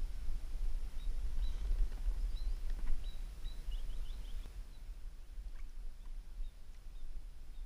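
Small birds chirping in short high notes, a quick run of them in the first half, then only a few, over a steady low outdoor rumble.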